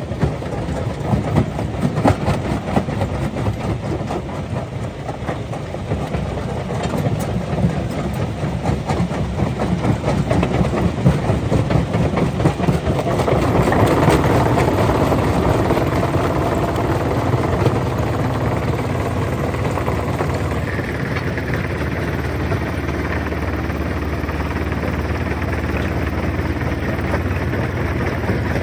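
Rock crusher running: a steady mechanical rumble with frequent knocks and clattering of stone, louder for a few seconds around the middle and steadier in the second half.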